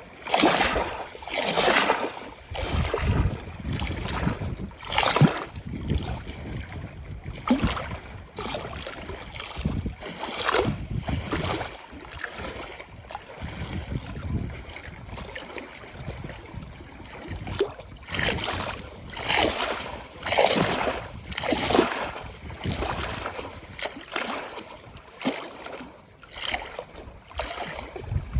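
Small lake waves lapping and splashing in irregular slaps every second or two, with a low wind rumble on the microphone.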